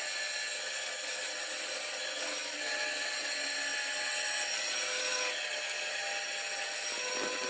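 A power tool cutting or shaping wood, running steadily with a constant whine over the cutting noise.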